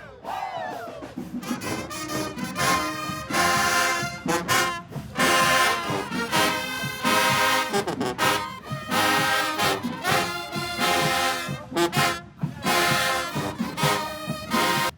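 Marching band brass section, trombones and trumpets, playing loud, short chords in punchy blocks with brief gaps between them.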